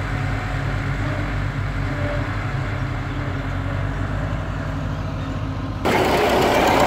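Tractor engine running steadily with a low, even drone. About six seconds in, the sound switches abruptly to a louder rushing noise.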